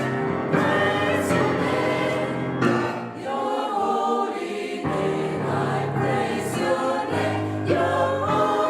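Gospel choir singing held chords together; the low voices drop out briefly in the middle of the phrase.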